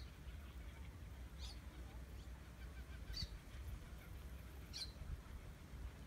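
Birds calling: three short, high calls about a second and a half apart, over a low steady rumble.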